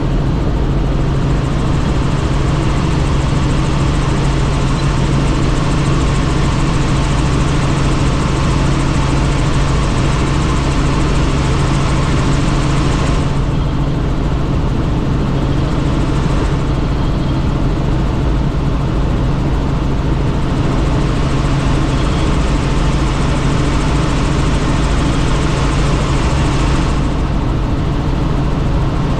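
Helicopter in flight heard from the cabin with the doors off: a steady drone of engine and rotor with a strong low hum, under a rush of wind noise. The upper hiss thins out for a few seconds about halfway through and again near the end.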